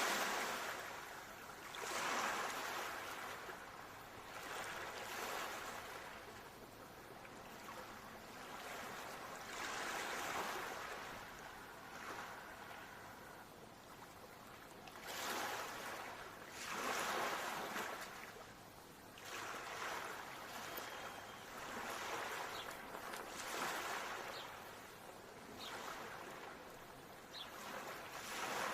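Ocean surf washing in and drawing back, the sound of the waves swelling and easing off about every two to five seconds.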